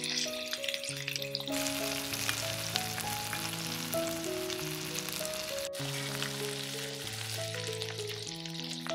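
Chicken wings sizzling steadily as they fry in oil in a pan, the sizzle breaking off for an instant just past halfway. Soft background music of sustained notes plays over it.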